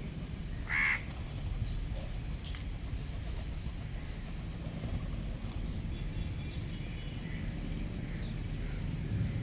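A bird gives one short, loud call about a second in, with fainter high chirps from other birds scattered through the rest, over a steady low rumble of outdoor noise.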